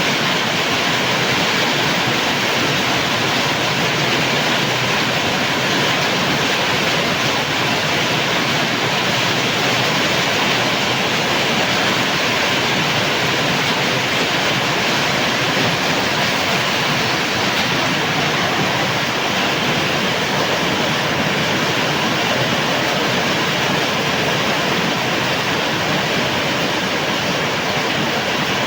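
Steady heavy rain falling, an even, unbroken hiss of water.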